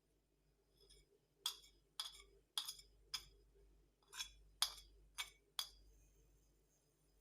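About eight light clinks of a kitchen utensil against a dish, roughly two a second with a short pause midway.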